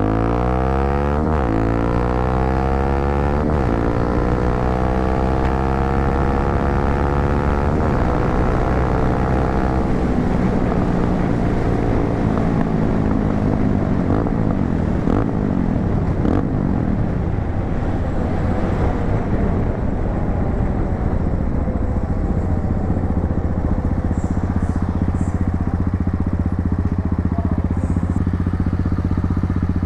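250cc motorcycle with an aftermarket muffler accelerating, its exhaust note rising and dropping back at each gear change, then running at a steadier pitch with more rushing noise.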